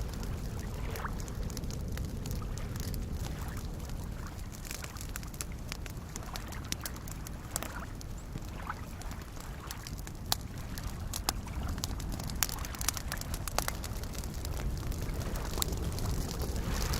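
Wood campfire crackling, with frequent sharp pops and snaps, over a steady wash of small waves lapping at a lakeshore.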